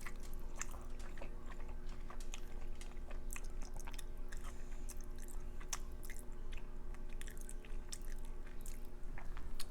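A person chewing food close to the microphone, a run of small irregular mouth clicks and smacks, over a faint steady hum.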